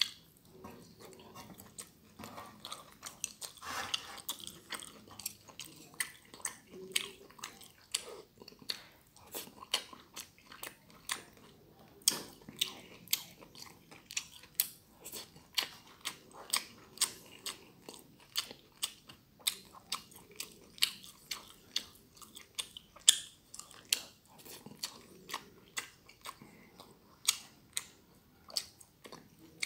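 Chewing a mouthful of stir-fried glass noodles, with sharp wet mouth clicks and smacks at about two a second through most of it.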